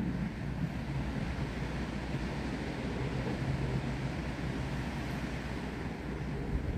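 Wind and rain through trees: a steady hiss with a low rumble of wind buffeting the microphone.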